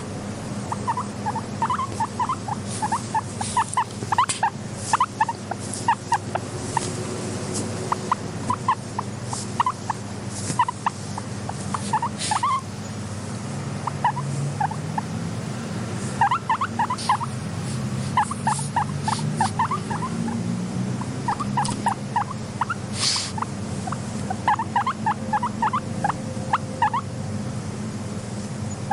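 Guinea pig squeaking in quick runs of short calls, several a second, with pauses between the runs and occasional sharp clicks.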